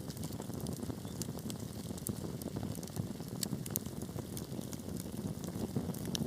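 Wood fire burning in a fireplace: a steady low rustle of flames with scattered sharp crackles and pops.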